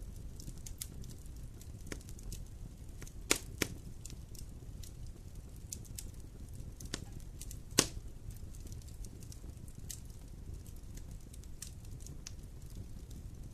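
Wood campfire burning, the wood crackling with scattered small clicks over a low steady rumble. A few sharper pops stand out, two about three and a half seconds in and the loudest nearly eight seconds in.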